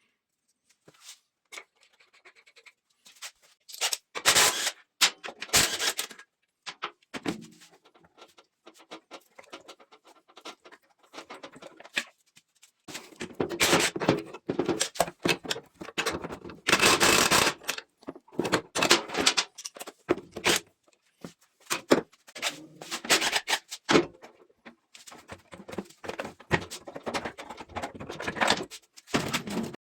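Workshop handling noises: irregular scraping, clinking and knocks of tools and metal parts being worked on, coming in bursts that grow busier in the second half.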